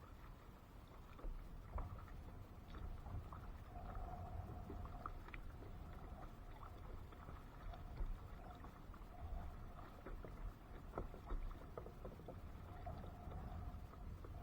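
Small knocks and clicks on a kayak over a low rumble of water and wind, with a faint hum that comes and goes.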